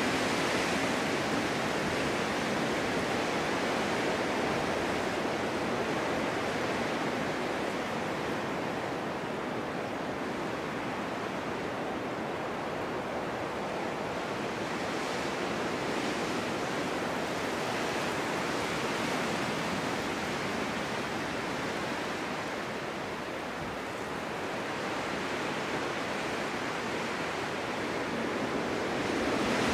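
Snowstorm wind blowing steadily: a broad rushing hiss that slowly swells and eases, dipping a little about three-quarters of the way through.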